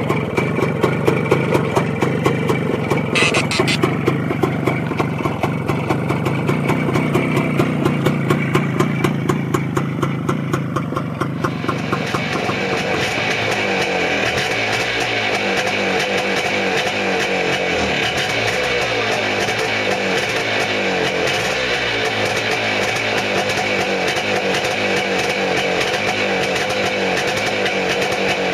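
Single-cylinder motorcycle engine running, with evenly spaced firing pulses. About twelve seconds in, the sound changes abruptly to a higher, busier engine note that holds steady.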